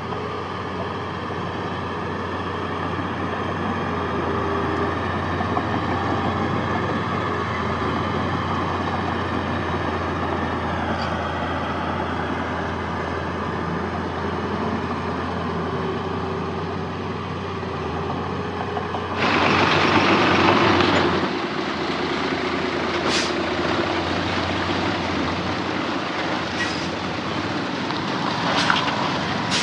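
Heavy diesel earthmoving machinery running steadily with a deep engine hum. About two-thirds of the way through there is a loud two-second hiss of released air, and a few sharp metallic clanks follow near the end.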